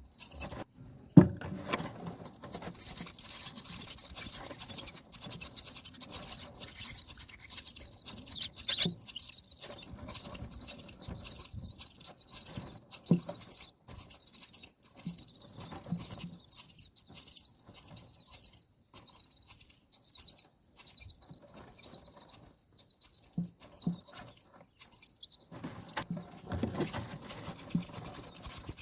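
Common myna nestlings begging: a near-continuous high, rapid chirping with a few brief pauses, and now and then a soft knock or rustle in the nest.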